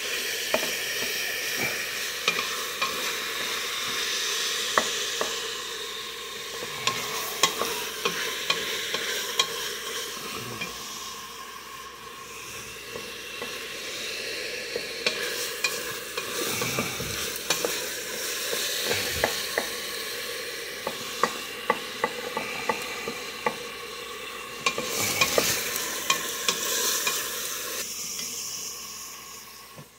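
Ground beef and diced onions sizzling as they brown in a stainless steel pot, stirred with a wooden spoon that scrapes and knocks against the pot in many sharp clicks. The sizzle fades out near the end.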